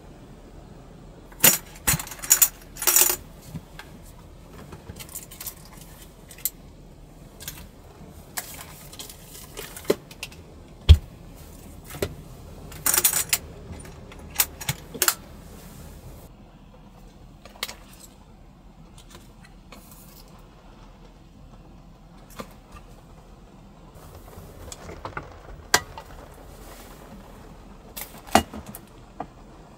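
Small objects, metal among them, handled at close range: scattered clicks and short clinking, jangling clusters, with one louder knock about eleven seconds in, over a low steady hum.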